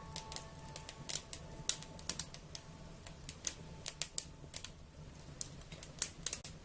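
Wood fire crackling: irregular sharp pops and snaps over a low steady hum. The last held notes of soft music fade out during the first second or so.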